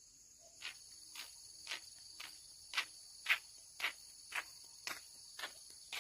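Footsteps at an even walking pace, about two steps a second, starting about half a second in, over a steady high-pitched chorus of crickets or other insects.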